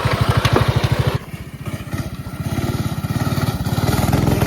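Coleman mini bike's small single-cylinder engine running hard. A little over a second in its sound drops off sharply, then it builds back up steadily.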